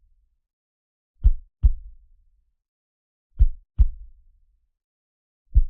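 Slow heartbeat sound: pairs of deep, short thumps, the two in a pair less than half a second apart, repeating about every two seconds with silence between.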